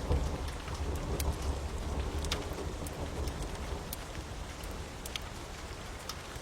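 Steady rain with a low rumble of thunder that eases over the first few seconds, and scattered sharp crackles of a wood fire popping.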